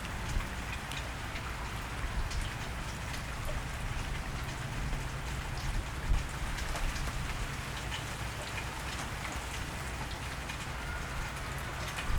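Steady rain falling, with many scattered drop ticks and a few louder drips.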